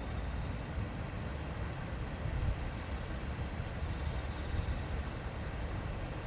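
River water flowing and babbling over stones: a steady, unbroken rush with a deep low rumble under it.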